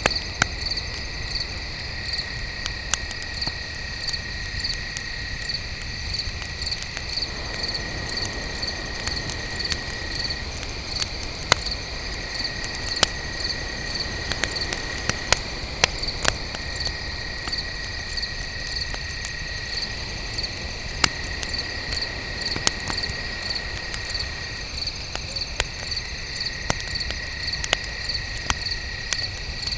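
Crickets chirping in a steady pulsing rhythm with a continuous shrill insect trill, over a crackling campfire that gives scattered sharp pops, a few of them louder.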